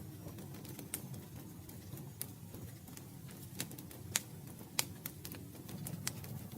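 Campfire crackling: burning wood giving off irregular sharp pops and snaps over a low, steady rumble, with the loudest pops a little after four seconds and near five seconds in.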